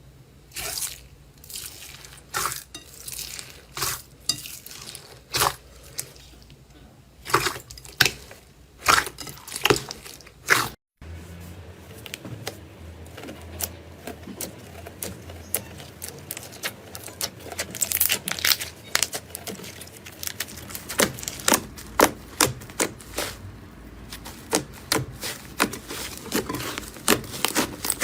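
Hands squeezing, poking and stretching slime, making irregular sharp clicking and popping crackles. The sound breaks off briefly about 11 seconds in as one clip gives way to the next.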